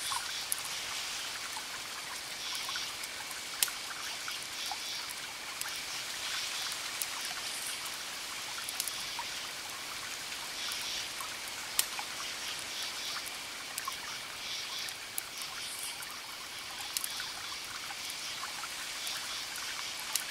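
Wood fire crackling: a steady hiss with scattered sharp pops, two of them louder, about three and a half seconds and twelve seconds in.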